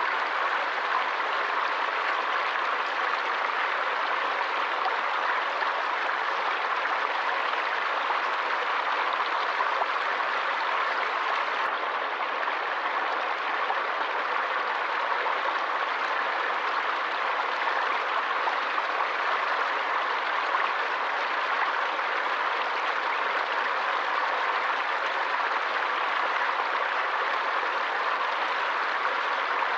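Stream water flowing steadily, an even, unbroken rush with no distinct splashes or changes.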